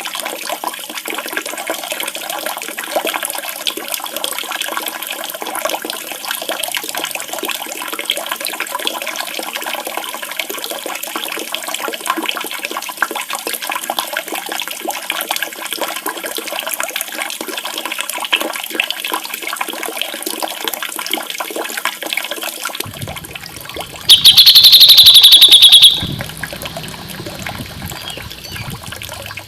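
Steady running, splashing water. About 23 seconds in it gives way to a songbird recording with a loud, rapid high trill lasting about two seconds.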